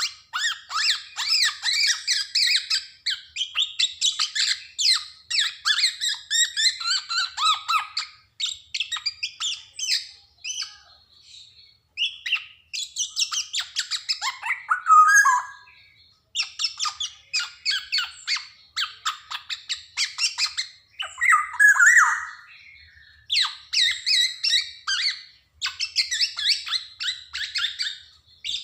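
Black-naped oriole (kepodang) calling and singing in runs of rapid, short, harsh notes with a few lower whistled phrases, broken by brief pauses.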